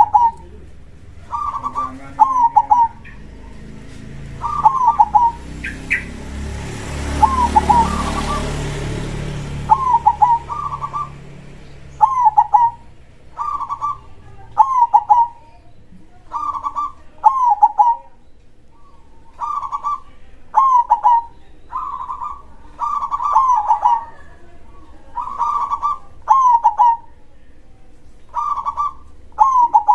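Zebra dove (perkutut) cooing over and over, with short rolling coo phrases about every second and a half. A few seconds in, a rushing noise with a low rumble swells and fades away.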